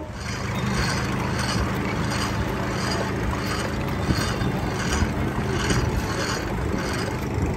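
A steady mechanical running hum, like an engine, with a regular clatter repeating about twice a second.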